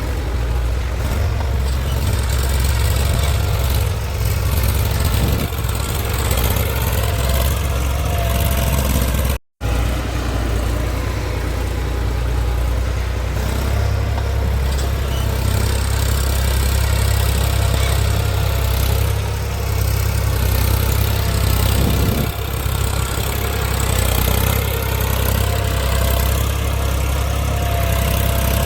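Eicher tractor's diesel engine running steadily with a deep rumble and a wavering whine above it, cut off for a split second about nine seconds in.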